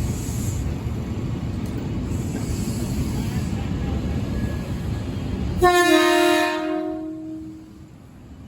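Commuter electric train rumbling loudly through the station in heavy rain; about six seconds in the rumble stops abruptly and a train horn sounds one blast of about a second and a half, sliding slightly down in pitch as it fades.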